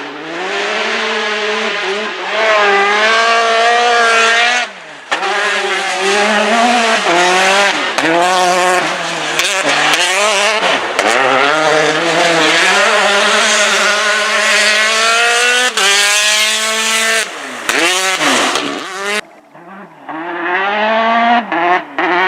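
Peugeot 208 T16 R5 rally car's turbocharged four-cylinder engine at full throttle, revving up again and again through the gears, with short drops in pitch at each shift or lift. Near the end the engine note falls away briefly, then picks up again.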